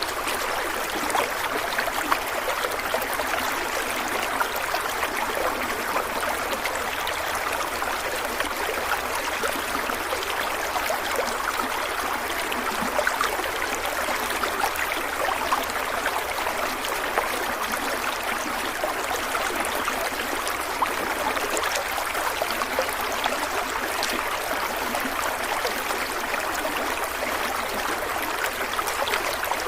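Stream of water flowing and burbling steadily over rocks.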